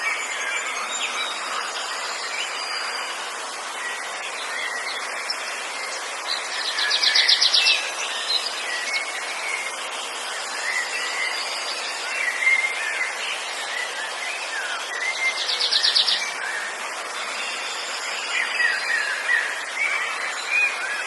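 Forest ambience: many birds chirping and calling over a steady hiss, with an insect's pulsed trill coming in twice, about a second long each time.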